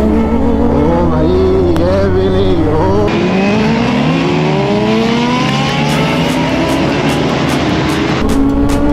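Motorcycle engine revving in short wavering blips, then pulling hard about three seconds in, its pitch climbing steadily for several seconds under acceleration.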